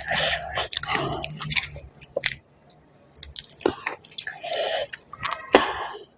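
Close-miked chewing of panipuri: crisp puri shells crunching between the teeth, with sharp mouth clicks and a short lull a little past the middle.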